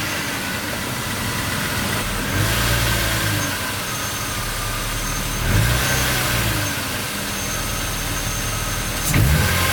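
BMW E36 328i's M52 inline-six idling just after start-up, with the throttle blipped three times so the revs rise and fall. No squeak or rattle comes from the freshly replaced serpentine belts, pulleys and tensioners.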